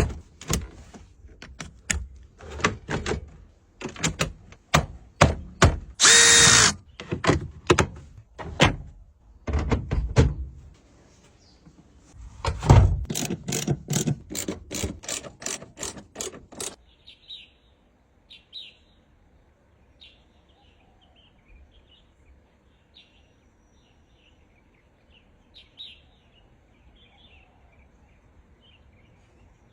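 A quick run of sharp clicks and knocks with some low thuds, and one short pitched tone about six seconds in, stopping about seventeen seconds in; then birds chirping.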